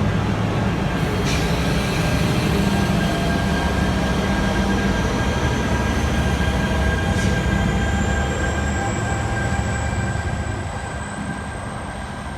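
A passenger train led by an ALP-45DP dual-mode locomotive passing close by: a steady heavy rumble with a thin high whine, one strand rising in pitch in the second half, and two sharp clicks. The sound eases off over the last couple of seconds as it goes away.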